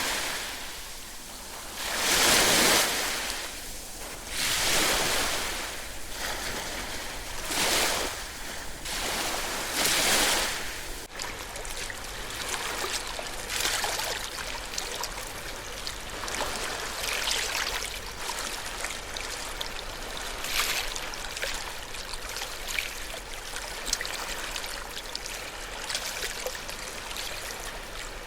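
Ocean waves washing onto a shore, one surge every two to three seconds. About eleven seconds in, the surges give way to a steadier, quieter fizzing wash of water with faint crackles.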